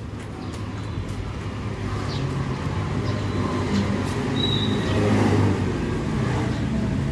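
Street traffic with engine rumble, a motor vehicle passing close and loudest about five seconds in, with a brief high squeak shortly before.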